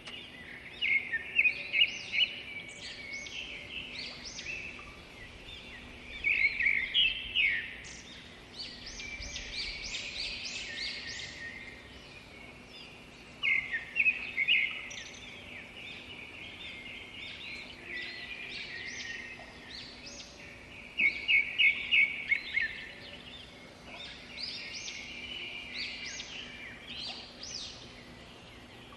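Birds chirping and calling in a dense chorus, with loud runs of rapid, sharp repeated notes several times, over a faint steady low hum.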